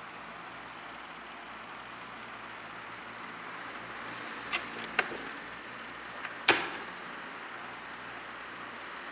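Vintage Panasonic F-1206 12-inch table fan running on its high speed: a steady rush of moving air with a faint motor hum. A few sharp clicks come around five seconds in, and a louder knock about six and a half seconds in.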